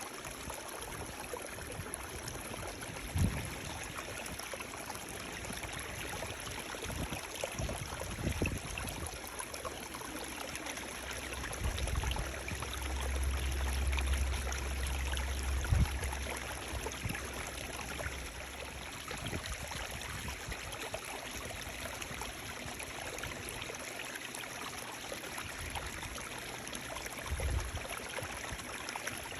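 Running water flowing steadily, like a stream. A few brief low thuds stand out, and there is a low rumble about halfway through.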